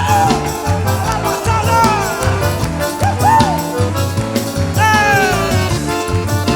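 Live forró band playing an instrumental passage with a steady beat, its lead melody swooping up and down in pitch.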